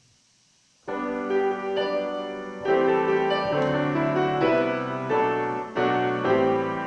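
Piano playing the introduction to a hymn: after about a second of near silence, chords come in suddenly and are struck again every second or so.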